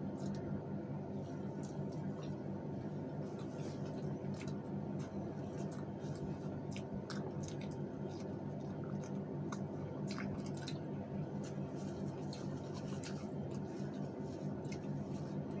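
People chewing food, with many short wet mouth clicks and smacks scattered throughout, over a steady low hum.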